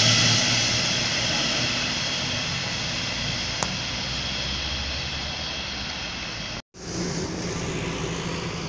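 Locomotive-hauled Alex passenger train pulling out, its rumble fading steadily as it draws away. The sound cuts out for a moment about two-thirds of the way through, then a quieter steady background noise remains.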